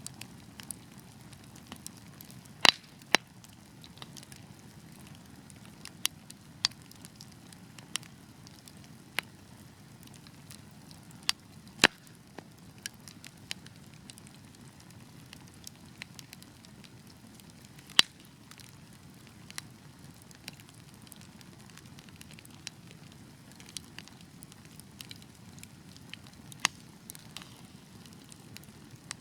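Wood fire crackling: a steady low hiss of burning logs with irregular sharp pops and snaps, a few much louder than the rest, about three seconds in, near the middle and about two-thirds through.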